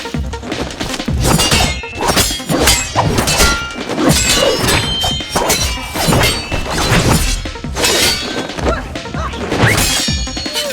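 Sound-designed katana fight effects: a rapid run of sword clashes, swishes and hits, some with a short metallic ring, over action music.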